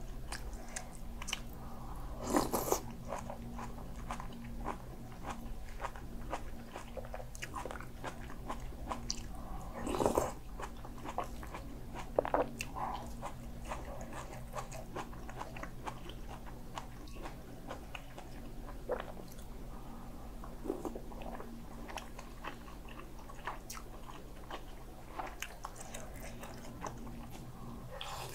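Close-up eating sounds of someone chewing and biting mouthfuls of kimchi stew with Spam: wet chewing with many small crunching clicks. A few louder mouth sounds come about 2, 10 and 12 seconds in.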